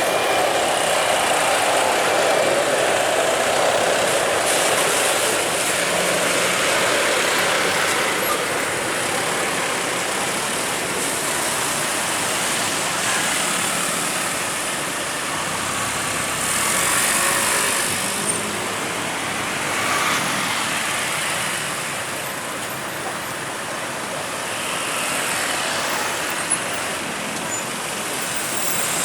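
Steady engine roar with no distinct pitch, loudest in the first few seconds and slowly easing off.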